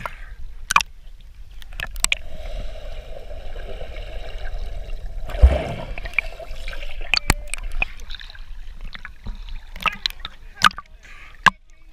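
Water splashing and sloshing, with scattered sharp knocks and one heavy low thump about five and a half seconds in.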